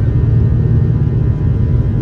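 Airbus A340-300's four CFM56 jet engines at takeoff power, heard from inside the cabin: a loud, steady low rumble with faint steady whining tones above it.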